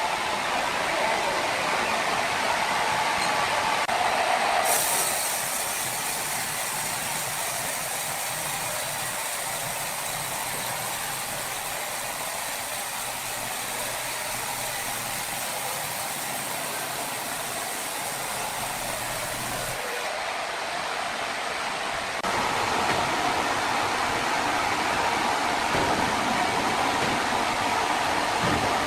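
Sawmill machinery running with a steady, noisy din. A harsher, high hiss comes in about five seconds in and stops about twenty seconds in, typical of the saw cutting through a log.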